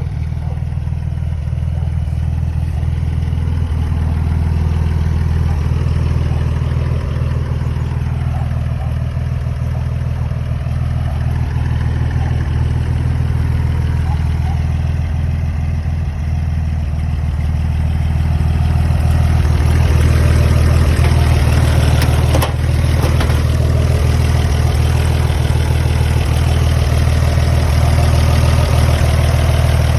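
Old Buick car engine idling steadily with a deep, even hum, becoming a little louder about two-thirds of the way through.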